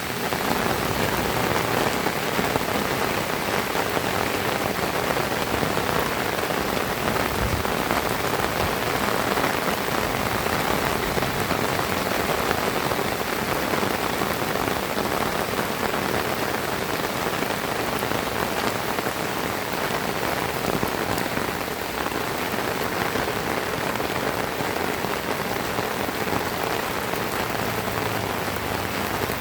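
Heavy rain falling steadily, a dense even rush of drops with no thunder heard.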